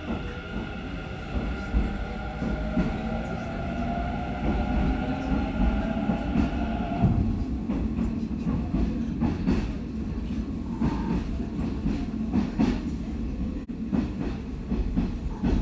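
Hanshin electric train heard from inside the car, its motors whining and rising slightly in pitch as it gathers speed. The whine cuts off about seven seconds in, and the train runs on with a low rumble and the clack of wheels over rail joints.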